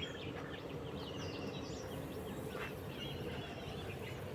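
Wild birds chirping and trilling in quick repeated notes over a steady low rumble.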